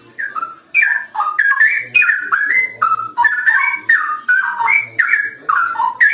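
Straw-headed bulbul (cucak rowo) in full song: a fast run of rich, liquid whistled notes that glide up and down, several a second with hardly a break.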